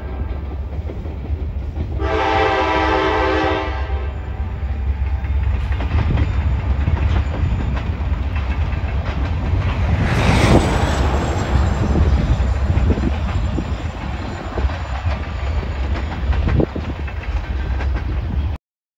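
Diesel locomotive horn sounding two blasts, the first ending at the start and the second about two seconds in. Then comes the continuous rumble and wheel noise of a freight train of covered hopper cars rolling past, swelling loudest about ten seconds in. The sound cuts off abruptly just before the end.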